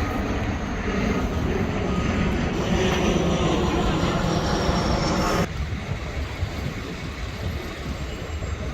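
A heavy vehicle's engine running loudly and steadily, with a faint high whine over it. About five and a half seconds in the sound drops off abruptly to a lower, steady rumble.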